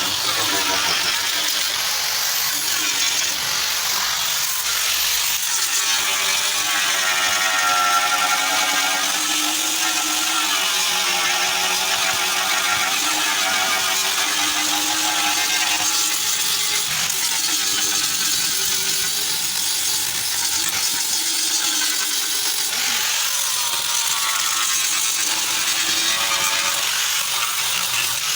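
Power tool running continuously on car bodywork, its pitch wavering up and down over a steady hiss.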